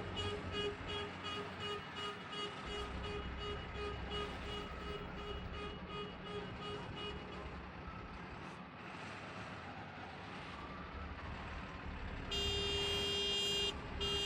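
Heavy vehicle engines rumbling at a mud-loading site. A rapid pulsing reversing alarm beeps about five times a second through the first seven seconds or so. Near the end a vehicle horn gives a long blast, then a second blast starts just before the end.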